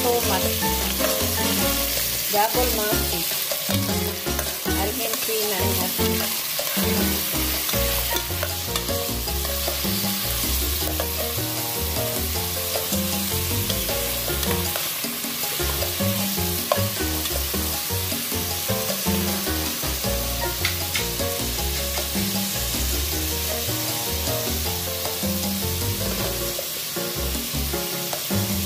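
Chopped garlic, ginger, onion, tomato and chili sizzling in oil in an aluminium pot as they are stirred, a steady frying hiss, with low music notes underneath.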